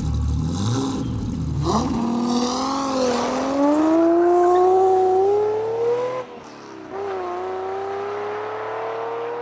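Tuned Jaguar V12 engine accelerating: after a low rumble its note climbs steadily. About six seconds in the revs drop briefly and then climb again.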